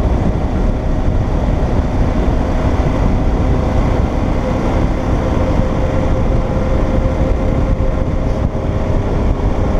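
Motorcycle cruising at a steady speed: a steady engine drone under heavy wind rush on the microphone.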